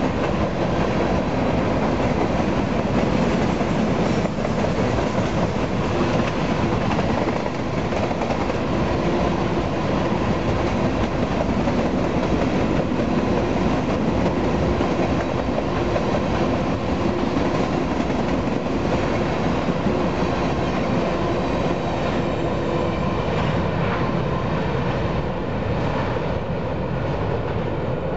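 Freight train of covered hopper cars rolling past: the steady rumble of steel wheels on the rails. It eases a little near the end as the last cars go by.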